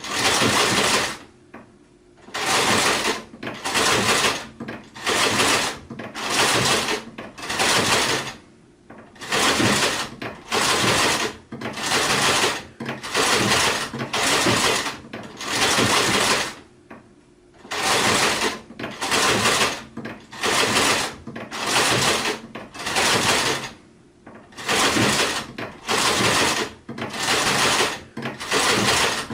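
Sewing machine stitching in short runs of about a second each, stopping and starting over and over, with a few slightly longer pauses between runs.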